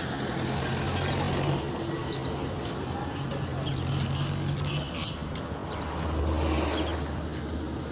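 Road traffic: vehicle engines running with a steady low hum over road noise, the hum swelling briefly about six seconds in.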